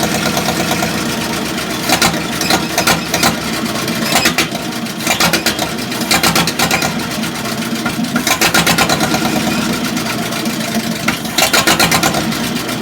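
Farmall H tractor's four-cylinder engine running steadily after a long-dormant restart, broken by irregular short bursts of louder noise.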